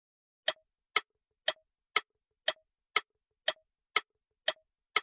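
Clock-ticking sound effect, ten even ticks at two per second, counting down the pause left for the learner between vocabulary words.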